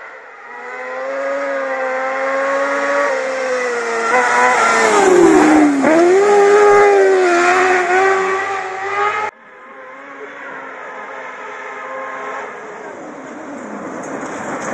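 Rally car engine running hard. Its revs hold, dip sharply about halfway through and climb again. An abrupt cut brings in a quieter rally car engine whose revs rise steadily.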